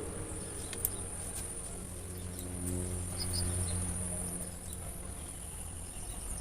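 Insects chirring in a steady high-pitched trill over a low steady hum.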